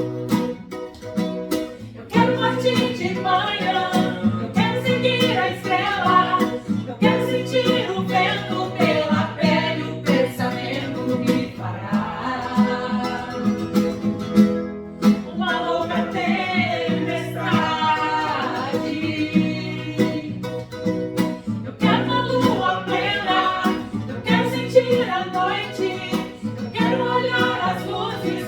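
A song sung to guitar accompaniment: voices sing a melodic line over plucked and strummed guitar chords, with a brief drop in the sound about halfway through.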